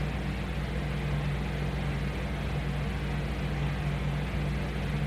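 Steady low machine hum with a faint hiss, unchanging throughout: room background noise such as a fan or air conditioner.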